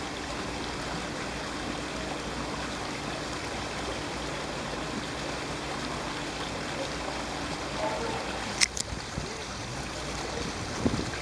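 Steady rush of flowing stream water, with two sharp clicks close together about three-quarters of the way through.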